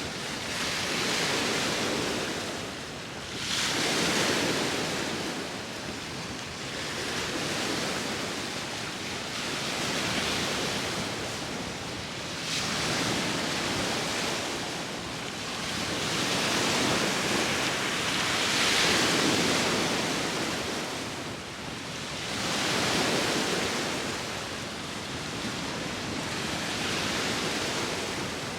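Sea waves breaking and washing on the shore, a steady wash of surf that swells and fades every three or four seconds.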